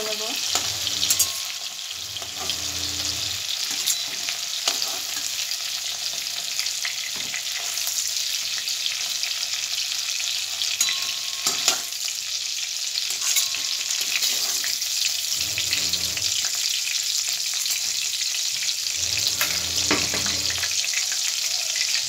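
Prawns sizzling as they fry in hot mustard oil in a metal kadai. A metal spatula scrapes and clicks against the pan now and then as the fried prawns are lifted out, and the oil keeps sizzling once the pan is empty.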